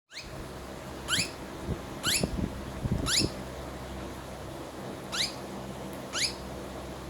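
Parrot giving short, rising squeaks at a steady pace, five in all, with a gap in the middle. A few soft knocks fall among the first three squeaks.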